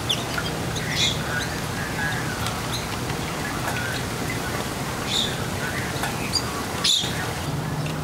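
Small birds chirping in short scattered calls, the loudest about a second in, around five seconds and just before seven seconds, over a steady background of trickling water.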